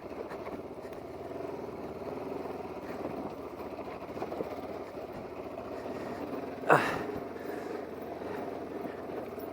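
Motorcycle engine running at low revs while riding slowly over a rough, rocky track, with one brief louder noise about two-thirds of the way through.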